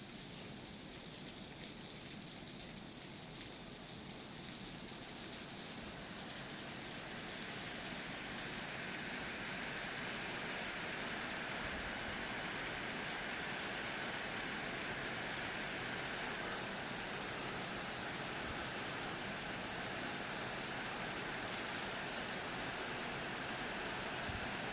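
Steady rain falling during a thunderstorm, growing heavier from about six seconds in, then holding steady.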